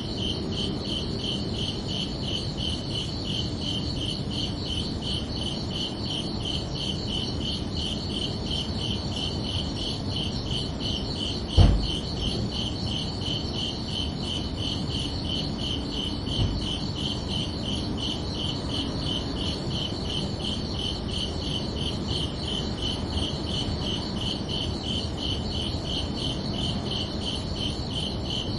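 Crickets chirping in a steady, even rhythm of high-pitched pulses over a soft low background hum. A loud low thump comes a little before halfway through, and a fainter one a few seconds later.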